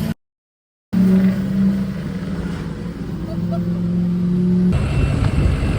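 Truck engines running and revving, cut off by a brief dead silence just after the start. From about five seconds in, a rougher, louder engine rumble.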